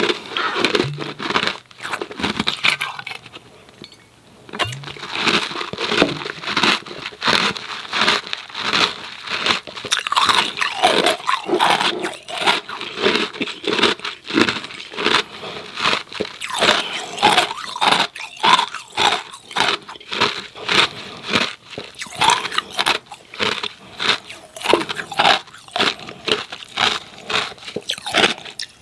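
Hard ice cubes crunched and chewed close to the microphone: rapid, sharp crunches at about two to three a second, with a short lull about four seconds in.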